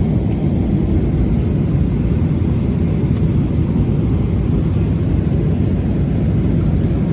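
Steady low rumble of engine and air noise inside the cabin of a Boeing 777-300ER.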